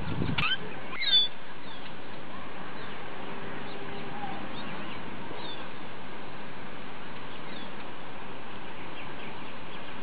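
Birds chirping in the background: a few quick, high chirps in the first second or so and fainter ones scattered later, over a steady hiss of ambient noise.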